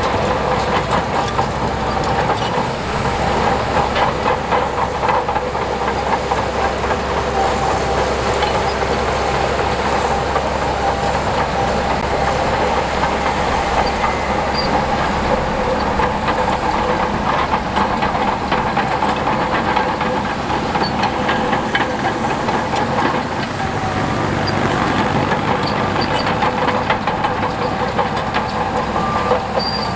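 Tracked earthmoving machine working: a diesel engine runs steadily under load while its steel tracks clank continuously.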